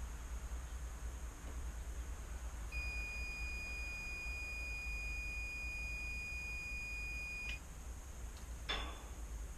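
A single steady electronic beep held for about five seconds, then a sharp click, over a low steady rumble.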